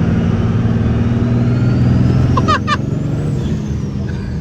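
Second-gen Dodge Cummins 5.9-litre inline-six turbo-diesel pulling hard under throttle, the engine note building over the first two seconds and easing after. A faint high turbo whistle climbs for about three seconds and then falls away.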